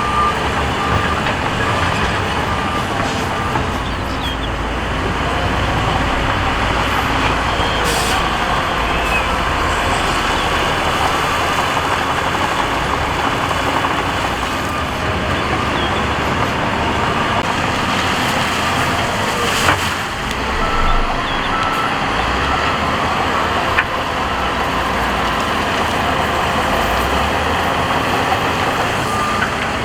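Heavy diesel earthmoving machinery running steadily, with a reversing alarm beeping in short bursts at the start, in the middle and again near the end.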